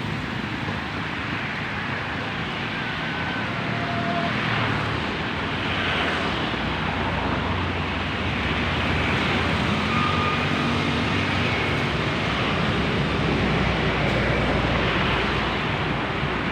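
Steady rushing of water falling over a small waterfall, an even unbroken noise throughout.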